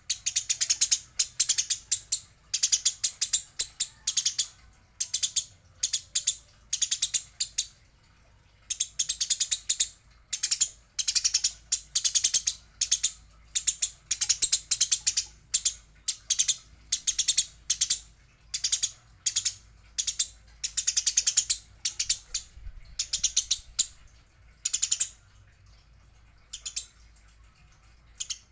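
Eurasian tree sparrow giving harsh, rapid chattering calls, the excited chatter used for fighting sparrows, in bursts of about half a second to a second with brief gaps, pausing about a third of the way in and again near the end.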